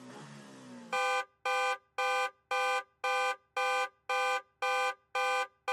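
Electronic countdown beeps, one steady pitched tone repeated about twice a second, starting about a second in: a quiz timer running out. A faint background sound comes before the first beep.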